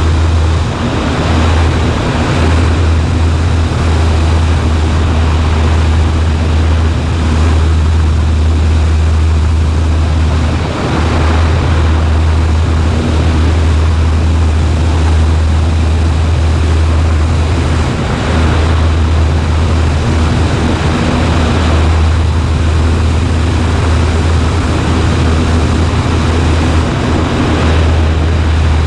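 Steady drone of a Cessna 140A's engine and propeller at a constant setting, with a strong low hum under steady rushing noise.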